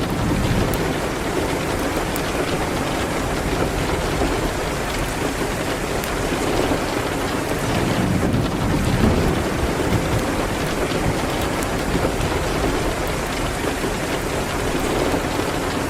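Steady, dense rain with a deep low rumble under it and a few faint scattered clicks.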